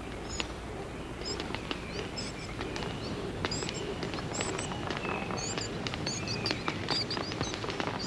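Rainforest ambience: birds giving short high chirps over and over, with scattered sharp clicks over a steady low background hiss.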